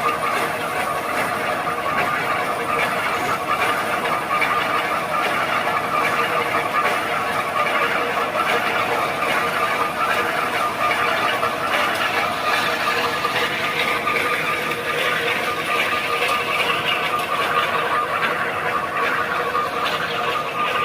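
Tata Signa heavy truck's diesel engine running under load, a continuous mechanical clatter with a steady whine over it.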